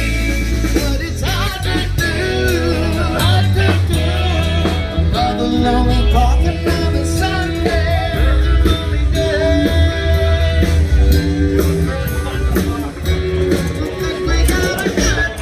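A band playing a rock-and-roll style song, with a singer and guitar over a steady bass.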